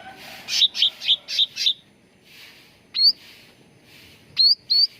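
Cucak ranting leafbird singing: a quick run of five sharp notes, then after a pause clear upslurred whistled notes, one and then two close together near the end, over a faint chatter of other birds.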